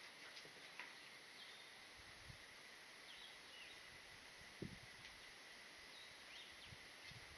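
Near silence: faint outdoor ambience with a steady high tone, a few faint bird chirps, and one soft thump a little past halfway.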